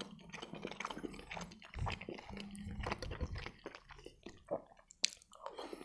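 Quiet close-up eating sounds: soft biting, chewing and wet mouth noises from eating a butter-filled chicken Kiev cutlet, with a brief low hum around two seconds in and one sharp click about five seconds in.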